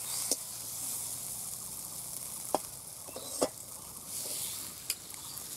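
Mashed drumstick mixture sizzling as it fries in a metal kadai while a spatula stirs and presses it. A steady hiss is broken by about four sharp scrapes and knocks of the spatula against the pan.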